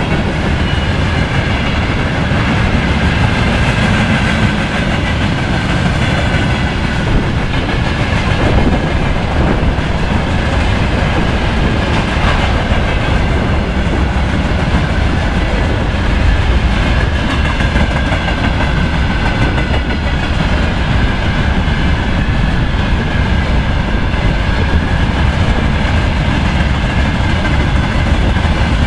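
Freight train wagons, a refrigerator car and a long string of open gondola cars, rolling steadily past at speed: a continuous loud rumble of wheels on rail with clickety-clack, and a faint high ringing tone over it.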